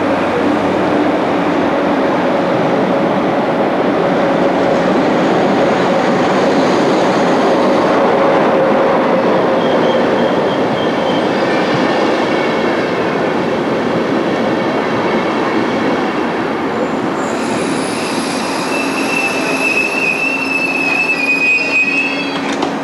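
Intercity passenger coaches rolling into a station platform and braking. From about three-quarters of the way in, high, steady brake squeal joins the rumble of the wheels as the train slows toward a stop.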